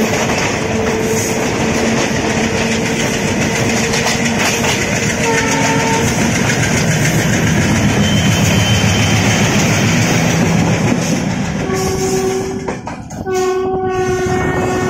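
Indian passenger train rolling out, heard from an open coach door: a steady rumble and rattle of wheels on rail, with a locomotive horn holding long notes during the first several seconds and again near the end, after a brief dip in the noise.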